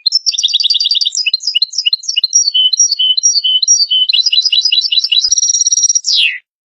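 European goldfinch singing: a rapid, twittering run of short tinkling notes that jump about in pitch. It ends about six seconds in with a buzzy trill and a quick falling note.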